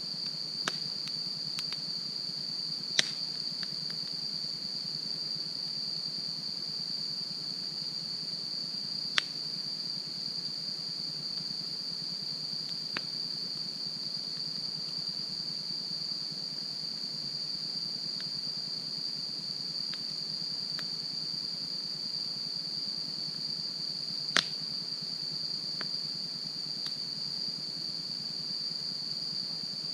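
Wood campfire crackling, with a handful of sharp pops, the loudest about 3, 9 and 24 seconds in. A steady high-pitched insect trill, like an autumn cricket chorus, runs underneath.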